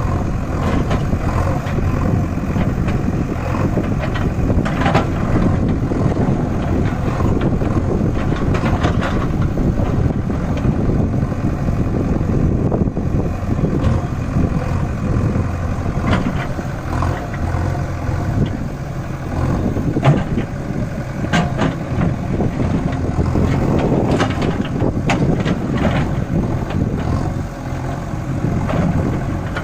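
Tractor diesel engine running steadily, with intermittent rattles and knocks scattered throughout.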